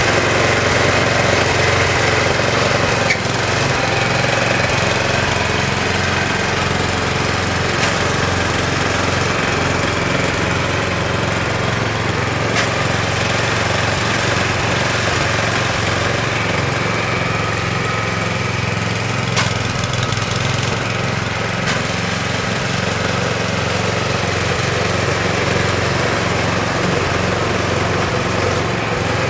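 Gasoline snow blower engine running steadily at a constant speed, with a few faint clicks over it.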